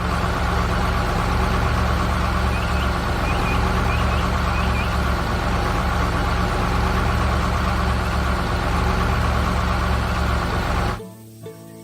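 Heavy construction-vehicle engine running steadily at a low, even pitch, cutting off suddenly about eleven seconds in. A few faint short high chirps sound over it a few seconds in.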